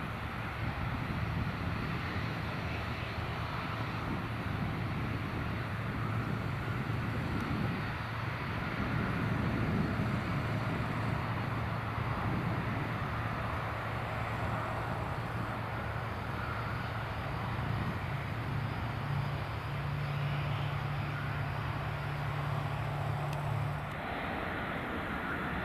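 Boeing 777-300ER's GE90-115B jet engines and airflow running steadily: an even rushing drone over a low hum. A slightly higher hum joins about three quarters of the way through and drops out shortly before the end.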